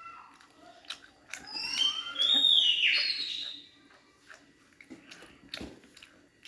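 Close-up chewing and crunching of snack chips, short crisp clicks scattered through, with one loud high-pitched sound with a wavering pitch lasting about two seconds, starting about a second and a half in.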